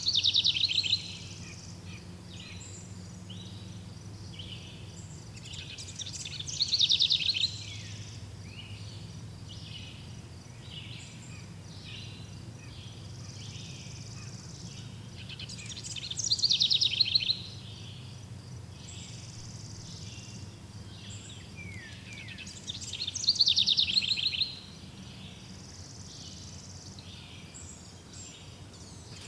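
A songbird sings a short, rapidly falling trilled phrase four times, several seconds apart. Behind it is a faint steady background of insects and a low hum.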